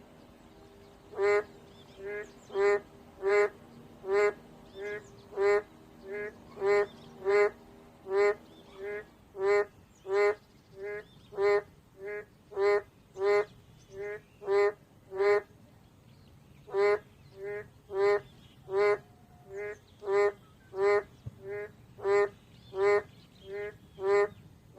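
Boreal digging frogs (Kaloula borealis) calling: a long run of short, pitched, honk-like calls about one or two a second. Louder and fainter calls alternate, from more than one frog.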